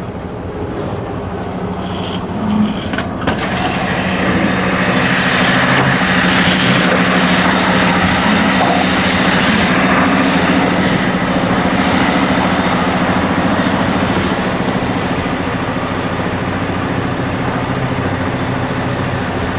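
Tractor-trailer's diesel engine running under way, heard from inside the cab: a steady low drone with road noise that swells about four seconds in. A couple of sharp clicks come around three seconds in.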